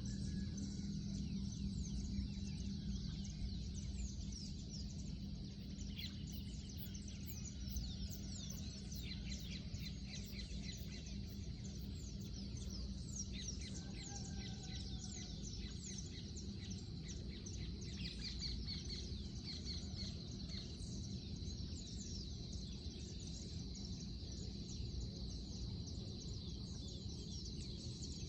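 Birds chirping with many quick, high calls, over a steady high tone and a constant low background rumble.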